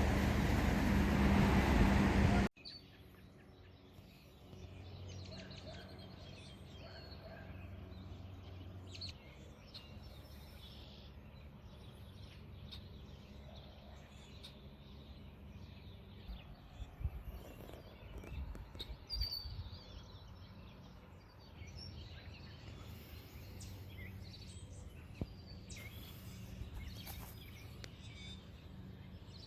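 Outdoor ambience: small birds chirping in short calls over a low, steady background rumble. It follows a loud rush of wind or traffic noise that cuts off abruptly about two and a half seconds in.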